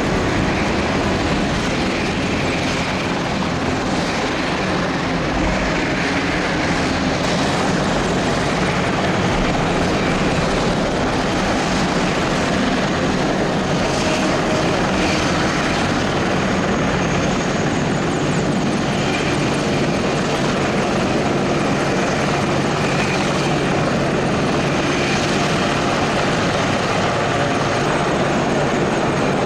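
Military helicopters in flight: the rotors and turbine engines give a steady, loud, unbroken noise.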